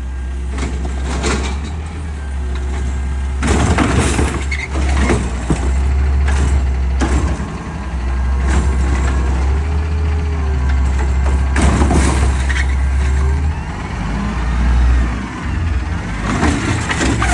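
Peterbilt 520 garbage truck's engine running steadily, with several short, loud bursts of noise over it: hissing and clanking from the truck at work.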